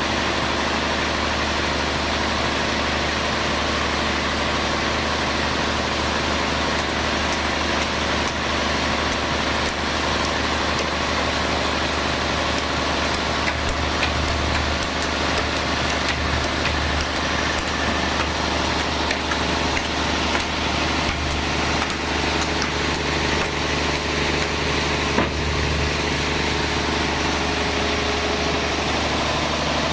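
Sawmill bandsaw machinery running steadily: a constant mechanical drone with one brief sharp tick late on.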